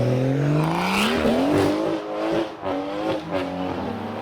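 A car accelerating hard away, its engine revs climbing for about a second, then dropping and rising again a few times as it pulls through the gears.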